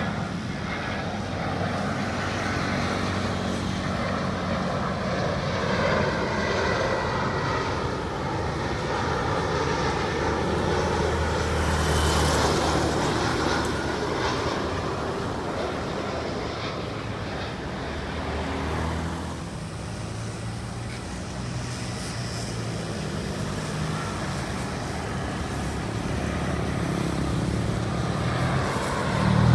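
Airbus A320-200 jet airliner on final approach passing by, its engine whine gliding down in pitch, loudest about twelve seconds in, over a steady rumble of road traffic.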